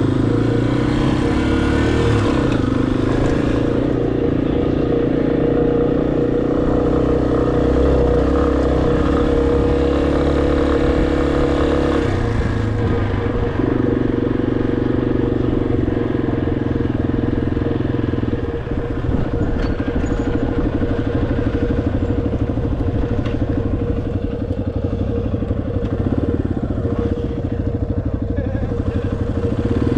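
Motorcycle engine running while riding, its pitch shifting with throttle changes several times, most clearly around the middle.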